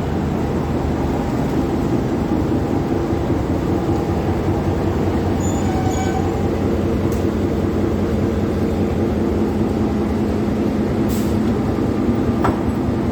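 Class M6 diesel locomotive idling: a steady low engine drone. A couple of short clicks come near the end.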